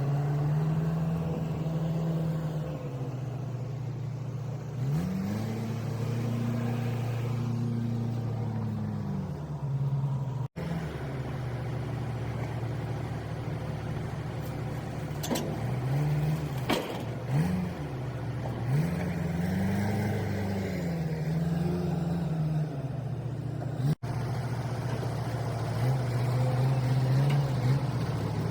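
Vehicle engine running and revving up and down several times as it works, with a few sharp clanks in the middle.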